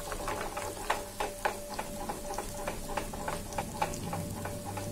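Chicken keema balls shallow-frying in hot oil in a non-stick frying pan: sizzling with many quick crackles and pops as the pan is shaken to roll them over.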